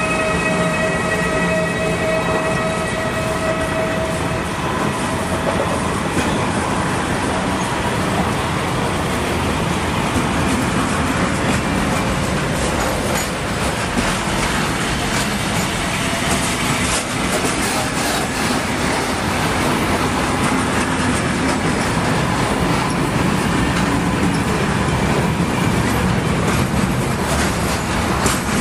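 Container freight train's loaded flatcars rolling past close by, a steady rumble of wheels on the rails with light clattering over joints and points. A high-pitched whine sounds during the first few seconds and fades out.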